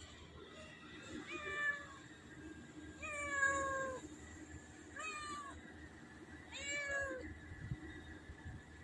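Kitten meowing four times, a couple of seconds apart, each call starting high and sliding down in pitch.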